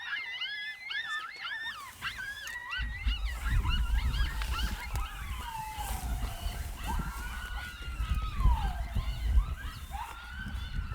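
Coyote yips and howls, several voices at once: quick wavering high yips over long, slowly falling howls. From about three seconds in, a low rumbling noise on the microphone joins them.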